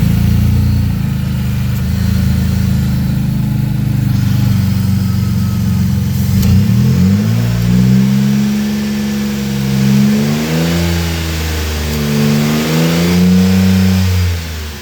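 2002 Ford Windstar engine idling steadily, then revved up and let back down several times from about halfway through, settling back toward idle near the end.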